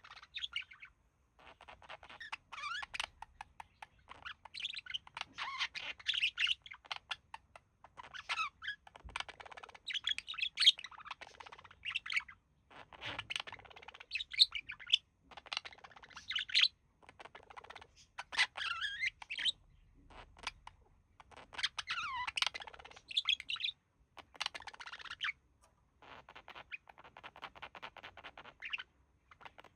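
Budgerigars warbling and chattering in bouts of a few seconds with short pauses, mixed with chirps and squawks.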